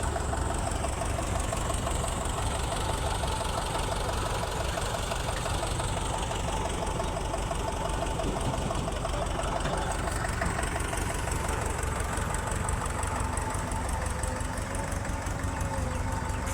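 Heavy diesel engine running steadily at low revs, with a fast, even beat for the first ten seconds or so.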